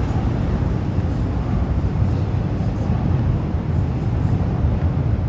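Steady low rumble of city noise, with no single event standing out.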